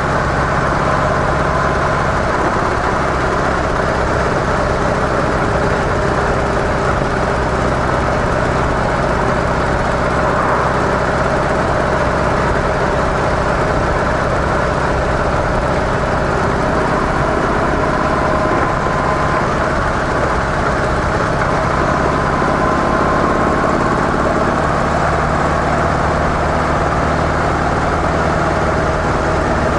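Harley-Davidson CVO Softail Deluxe's Twin Cam 110 V-twin running steadily through its stock mufflers, with no revving or gear changes.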